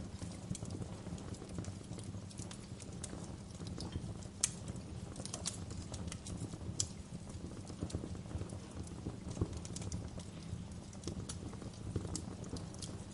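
Wood fire crackling in a fireplace: irregular sharp pops and snaps over a steady low rumble of the flames, the loudest pop about four and a half seconds in.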